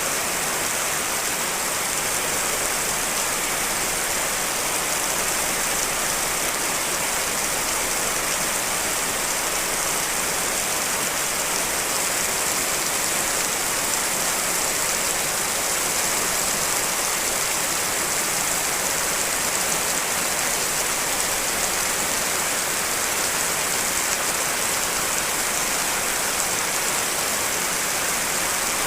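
Steady heavy rain, a dense even hiss of falling water with no single drops standing out; a layered mix of rain recordings.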